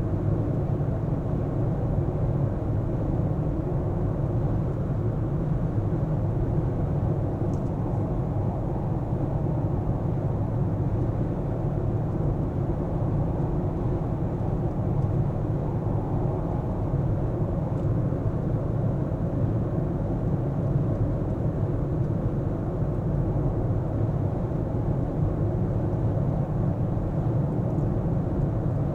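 Steady low rumble of a car being driven: engine and tyre noise holding even, with no sudden sounds.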